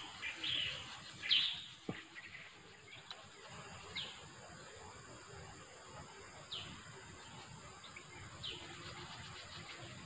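A bird repeating a single short, high, falling call every two seconds or so, over a steady background hiss, with a faint knock about two seconds in.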